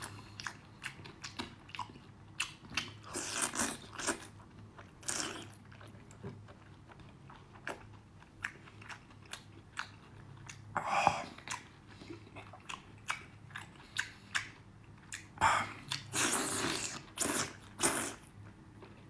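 Close-miked eating sounds: a person biting and chewing food, with many small sharp clicks and a few longer noisy stretches of chewing.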